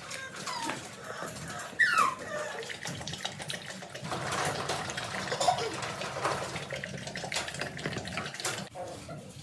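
American bully puppies whining, with two short falling cries in the first two seconds, the second the loudest, amid many small clicks.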